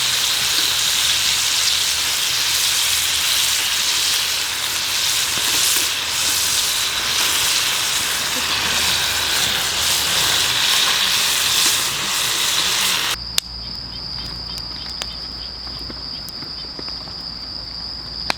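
Food frying in a pan, a steady, dense sizzle, for about thirteen seconds. Then it cuts off suddenly to a quieter background with a steady high chirring of insects.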